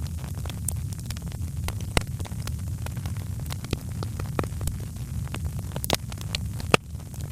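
Fireplace wood fire crackling: irregular sharp pops and snaps over a steady low rumble of the flames, with the loudest pop near the end.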